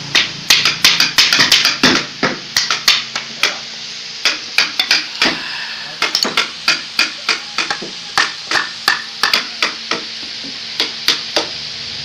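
Rapid, irregular sharp knocks of hammering, several a second, thinning out to a few scattered strikes near the end.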